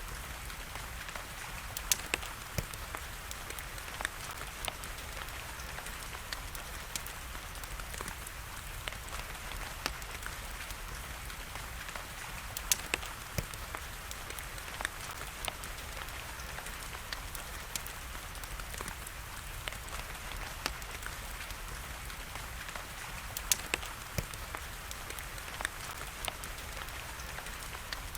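Steady rain hiss mixed with a crackling wood fire: scattered sharp pops and snaps, a few of them much louder than the rest.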